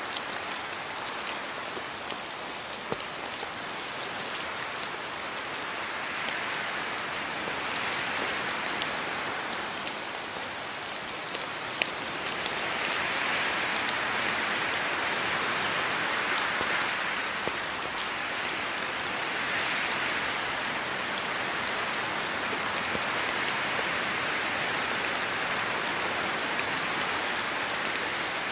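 Steady rain falling on the ground and surfaces of a yard, with scattered individual drops ticking out; the downpour swells a little heavier about halfway through.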